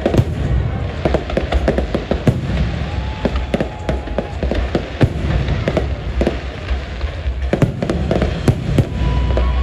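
High-altitude aerial firework shells bursting one after another: a dense run of bangs and crackles over a constant low rumble.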